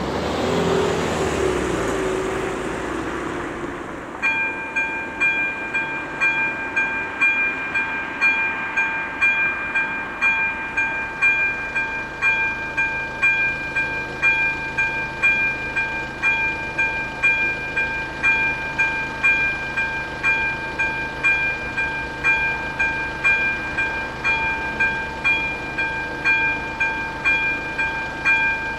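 The electronic warning bell of a Czech level crossing (AŽD ZV-02) starts ringing about four seconds in, a repeating ding about one and a half times a second that signals the crossing is closing for a train. Before it starts, a swell of noise fades away.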